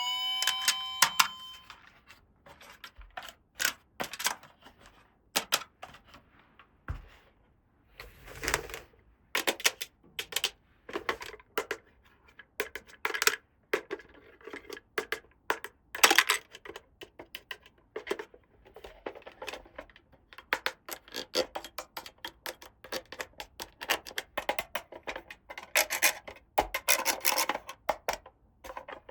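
Small plastic toy pieces clicking, tapping and rattling against each other as they are handled, in quick irregular runs with short pauses. A short chiming tune dies away at the very start.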